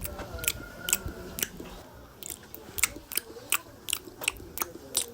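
Close-miked chewing with the mouth open: wet smacks and clicks of lips and tongue, about two or three a second.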